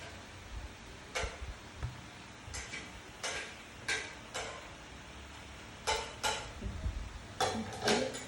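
Light clicks and taps of kitchenware, about a dozen scattered irregularly, with a quick cluster of several near the end.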